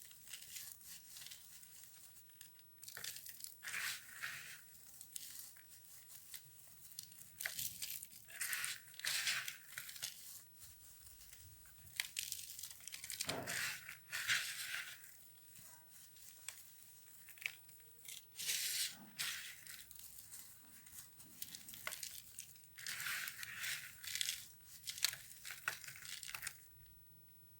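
Microwaved soap, puffed up dry and brittle, being crushed and cut apart: irregular bursts of crisp crumbling and crunching with short pauses between them.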